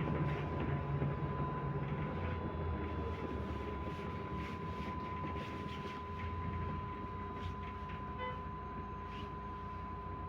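Inside a MAZ 105.465 bus on the move: the diesel engine running under road and body noise. Its note drops about two seconds in, and a steady thin whine runs underneath.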